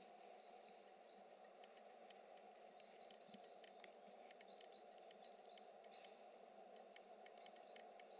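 Faint small-bird chirps, short high notes repeating every half second or so, with scattered light clicks over a steady background hiss.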